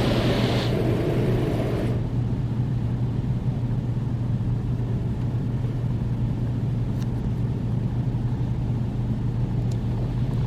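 Car wash rinse water spraying onto a car, heard from inside the cabin. It stops about two seconds in, leaving a steady low hum.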